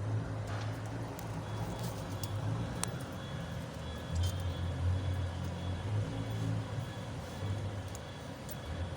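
Steady low rumble of an idling vehicle engine, with a few short, sharp metallic clicks of hand tools on bolts.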